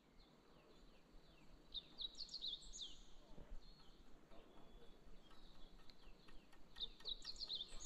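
Faint birdsong: quick runs of high, falling chirps from a small songbird, about two seconds in and again near the end.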